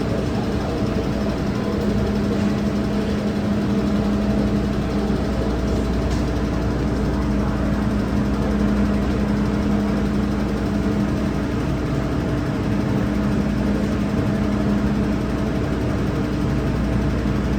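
MTR M-Train electric multiple unit standing with its equipment running: a steady hum with a constant low drone tone over an even rush of air.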